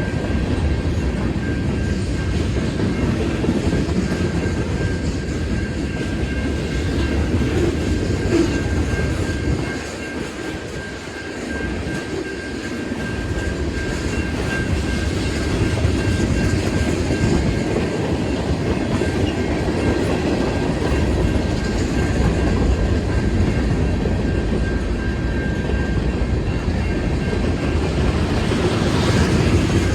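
CN freight train rolling steadily through a grade crossing, its wheels clattering over the rails, with a steady high tone running beneath.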